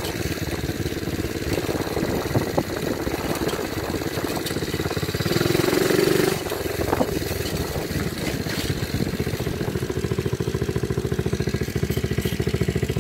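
Dirt bike engine idling with a steady run of firing pulses, louder for about a second around five seconds in.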